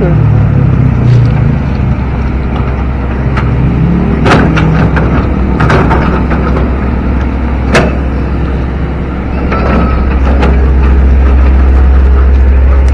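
Diesel engine of a hydraulic excavator running under load as it digs out a riverbed, with a few sharp metallic knocks from the bucket and boom. The engine gets louder near the end.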